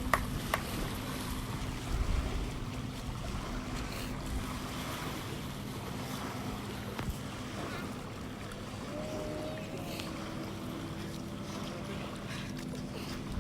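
Wind blowing on the microphone beside a lake, with a steady low hum underneath and a couple of sharp claps right at the start.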